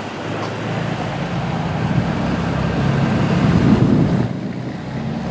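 Train passing close by: a steady rushing roar of wheels on rails with the low hum of a diesel locomotive's engine, swelling a little past the middle and dipping near the end, with wind on the microphone.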